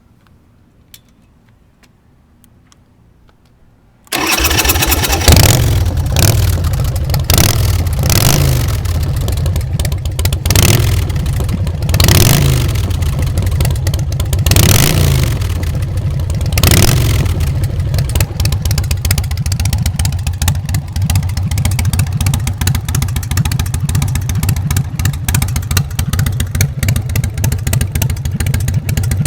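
2005 Big Dog Chopper's carbureted 117 cubic inch S&S V-twin with Mean Mother's exhaust pipes starting about four seconds in, revved up and down several times, then settling into a steady idle.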